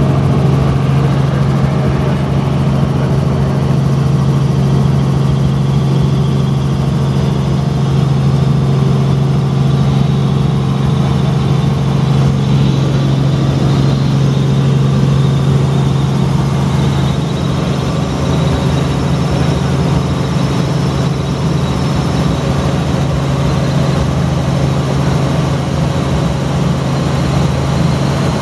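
Tour helicopter's turbine engine and rotors running: a loud, steady drone with a strong low hum, easing off slightly a little past halfway.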